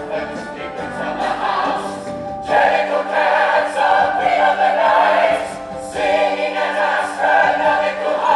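A musical-theatre chorus singing together over orchestral accompaniment, in long held phrases with a short break about midway.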